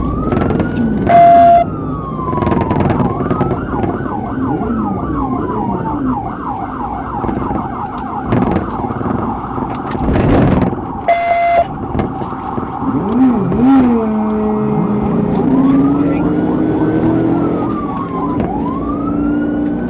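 Police car siren running through its cycle: slow rising-and-falling wail sweeps, then a few seconds of fast yelp sweeps, then wail again, over the running patrol car. Two short loud blasts cut in, about a second in and again near the middle.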